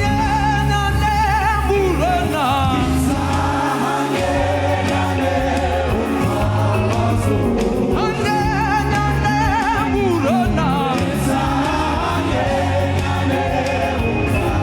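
Gospel praise music: voices singing with a choir over steady bass and instruments, the phrase repeating about every eight seconds.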